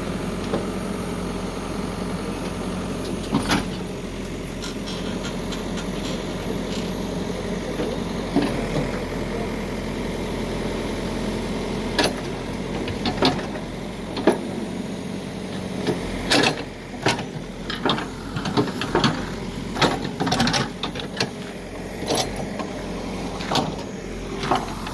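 Heavy diesel machinery running steadily, with sharp knocks and clanks that come only now and then at first and thick and fast in the second half.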